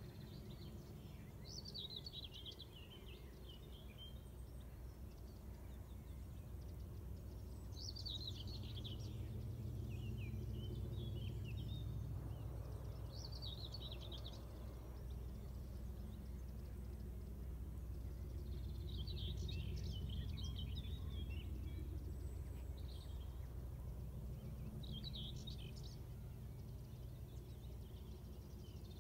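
Small birds singing in short twittering phrases, six or seven times, over a steady low distant rumble that swells and eases a little.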